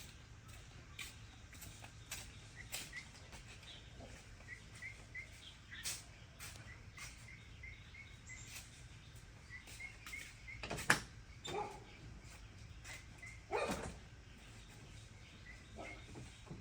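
Outdoor animal sounds: a small bird chirping over and over in short, evenly spaced notes, with scattered clicks and a couple of louder animal calls about eleven and fourteen seconds in.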